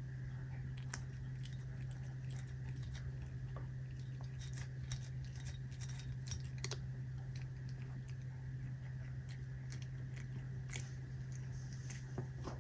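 A cat chewing and crunching capelin: irregular small crunches and clicks, over a steady low hum.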